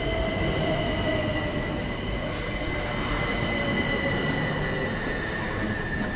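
Class 375 Electrostar electric multiple unit moving through the platform, with several steady high-pitched whines over the continuous rumble of wheels on rail.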